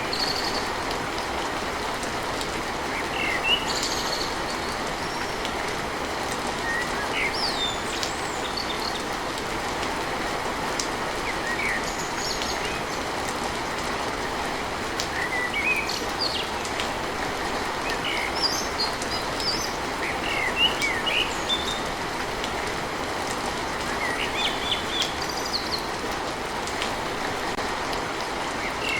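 Steady rain falling on a tin roof, with birds chirping in short calls now and then over it.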